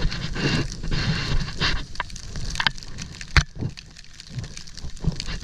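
Snowboard sliding through deep fresh powder snow: uneven hissing and crunching surges over a low wind rumble on the microphone, with a few sharp knocks, the loudest about three and a half seconds in.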